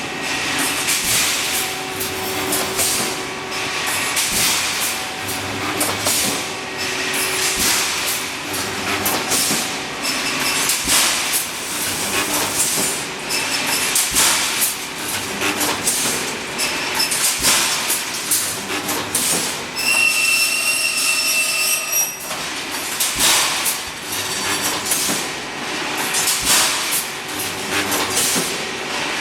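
Pneumatic rebar mesh welding machine running: a steady clatter of repeated metal knocks and clanks with bursts of hiss. About two-thirds of the way through, a high whistling tone sounds for about two seconds.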